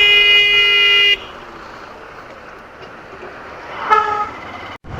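A vehicle horn sounds in one long steady blast that stops about a second in. Traffic noise follows, with a short second horn toot near the end.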